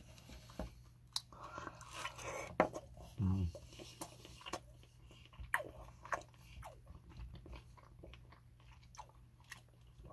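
Close-miked chewing of a mouthful of meatloaf and mashed potatoes, with many short wet mouth clicks and smacks. A brief low hum from the eater comes about three seconds in.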